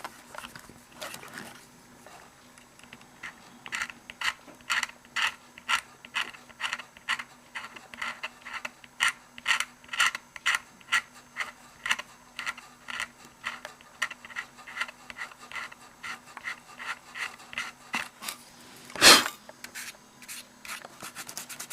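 Rhythmic hand rubbing and scraping on the plastic side of an HO-scale model locomotive shell, about two strokes a second, as the printed numbers are worn off. One louder knock near the end.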